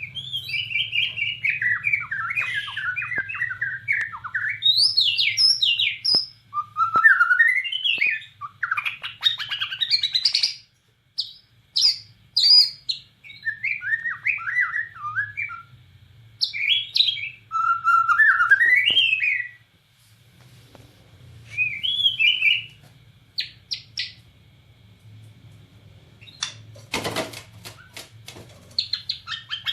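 Bornean shama (murai batu Borneo) singing hard in loud, fast phrases of varied whistled and chattering notes, broken by short pauses. A quick run of sharp clicks comes near the end. A faint steady low hum sits underneath.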